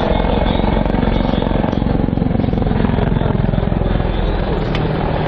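Mi-35 attack helicopter flying a display, its rotor beating fast and steadily over the run of its turbine engines.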